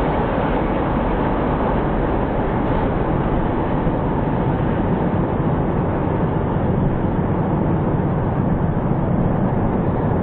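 Freight train cars rolling past on the rails, a steady, even rumble with no horn and no clear engine note.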